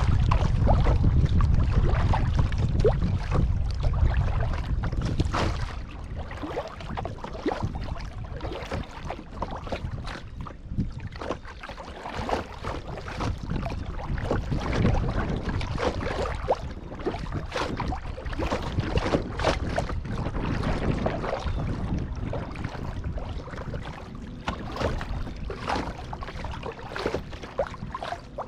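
Kayak paddling on a pond: the paddle blades dipping and splashing irregularly, with water dripping and lapping. Wind rumbles on the microphone for about the first five seconds.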